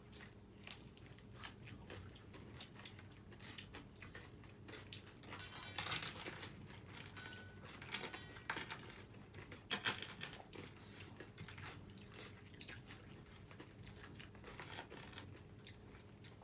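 Close-up eating sounds: chewing and irregular crisp crunches of fried cabbage pakoras, denser in a few spells about a third and halfway in.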